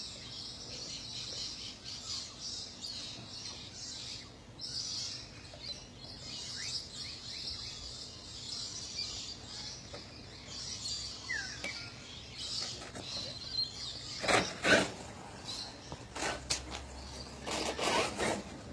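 Outdoor ambience: birds chirping now and then over a steady high hiss. Two loud bursts of rushing noise come late, one brief and one longer about two seconds after it.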